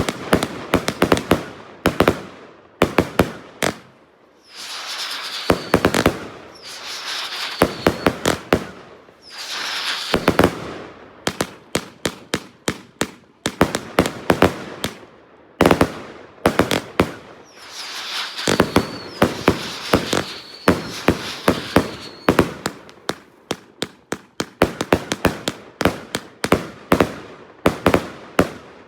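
Funke Goldbomber firework firing: volley after volley of sharp bangs in quick succession, with hissing between the shots and a few brief lulls.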